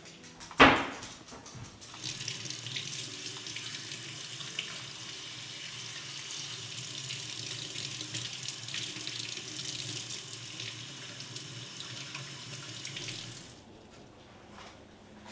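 A sharp knock, then water running from a tap into a sink in a steady stream for about eleven seconds before it is shut off.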